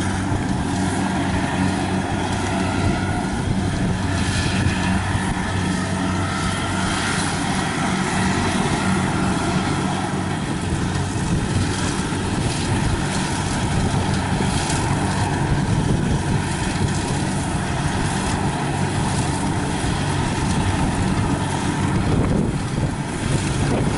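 Kubota 70 combine harvester's diesel engine running steadily as it harvests rice, a constant low hum with the machine's noise over it.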